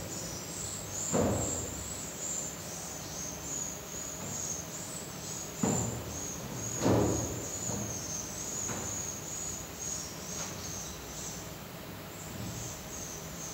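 Steady high-pitched chirring, like insects or crickets, with three dull knocks about a second in, near six seconds and just after.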